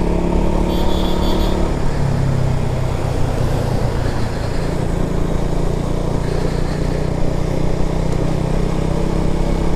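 KTM Duke 200 single-cylinder engine running steadily under way, with road and wind noise. A brief high-pitched beeping sounds about a second in.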